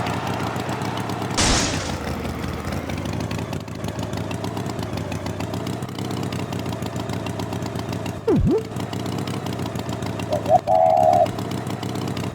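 A steady engine-like drone running throughout, with a short whoosh about a second and a half in, a quick swooping glide that dips and rises again around eight seconds in, and a brief pitched tone near the end.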